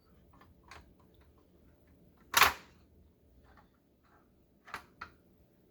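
Light clicks and taps from handling oven control boards, with one louder short knock about two and a half seconds in and two sharp clicks near the end.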